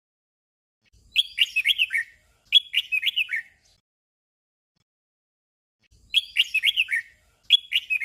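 Red-whiskered bulbul singing its short 'doubled' song: two quick phrases of downward-slurred whistled notes, one right after the other. The doubled song comes twice, about five seconds apart.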